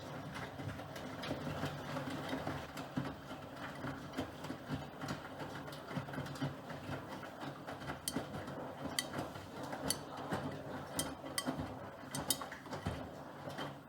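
Miele Professional PW6065 Plus washing machine running its 60°C coloured-wash programme: a steady mechanical churning of the turning drum. Sharp clicks and knocks come several times in the second half.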